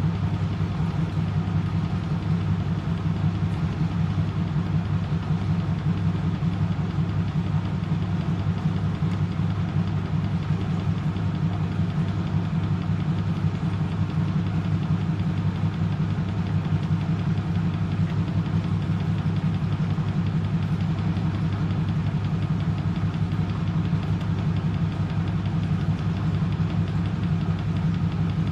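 1997 M eurotech EW 450 washing machine (Antonio Merloni build) spinning its drum at a steady 400 rpm, its motor humming evenly with a fast, even rumble from the drum.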